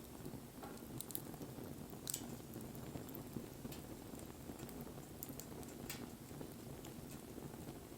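Wood fire burning: a low, steady rush of flames with several sharp crackles and pops from the burning wood.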